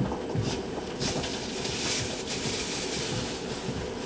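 A train running: a steady hum with a rushing hiss that comes up about a second in.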